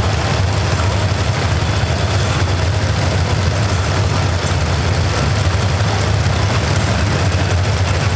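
Steady, unchanging low rumble of idling engines.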